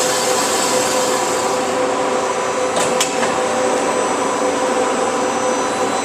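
Industrial band saw running steadily through a notch cut in a block, with a steady whine. About three seconds in there are two sharp clicks close together.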